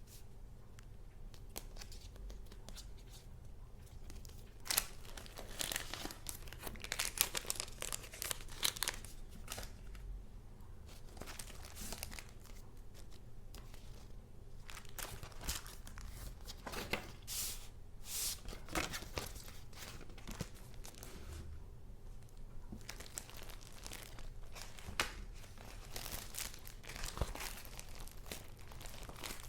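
Paper being handled: rustling and crinkling in irregular bursts, with quieter gaps between them.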